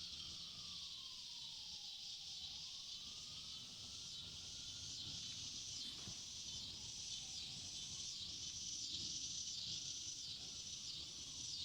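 Steady high buzzing chorus of insects, pulsing about one and a half times a second in the second half, over a low rumble of wind. A faint thin tone slides slowly up and down in the background.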